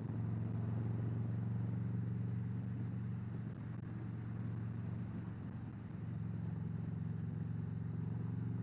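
Harley-Davidson Road Glide V-twin with aftermarket pipes running steadily under way, heard with wind noise on the rider's mic. The engine note eases off about three and a half seconds in and picks back up around six seconds in.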